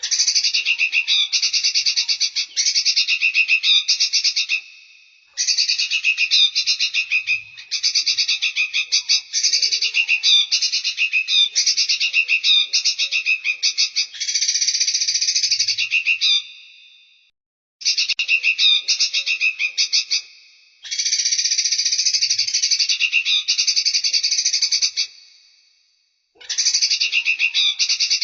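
Songbird song from a bird-training (masteran) recording: bouts of high, fast, chattering trills about four to five seconds long, each tailing off before a short gap and the next bout.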